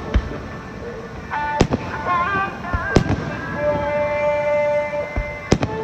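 Aerial fireworks bursting, with about four sharp bangs a second or so apart, while music with a wavering melody plays.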